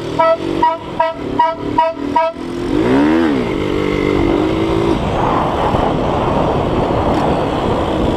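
Novelty car horn sounding a quick run of short two-tone toots, about three a second, then a lower tone that dips and holds for a couple of seconds, followed by steady engine and road noise.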